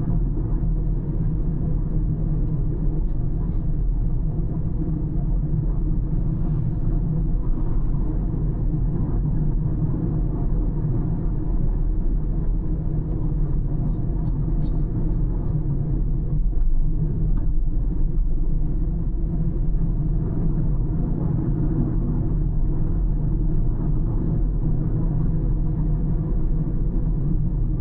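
Car driving on the road: a steady, low rumble of tyres and engine with no sudden events.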